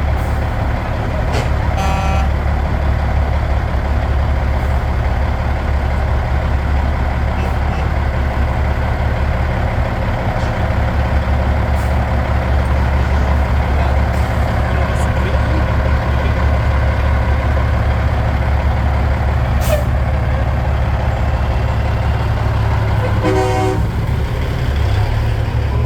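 Heavy trucks' diesel engines running steadily as they drive past in a slow convoy. A short pitched sound comes about two seconds in and another near the end.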